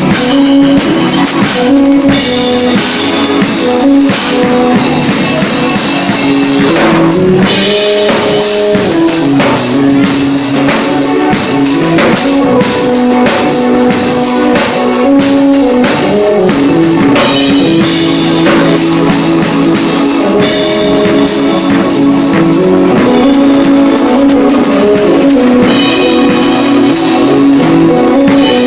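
Music from an electronic keyboard's sounds: stepping synth and bass lines over a drum beat.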